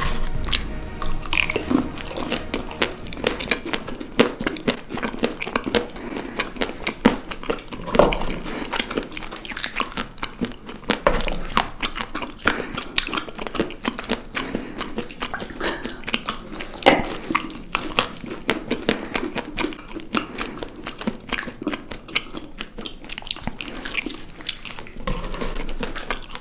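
Chocolates being bitten and chewed close to the microphone: a steady run of crisp clicking and crunching, with harder bites standing out now and then.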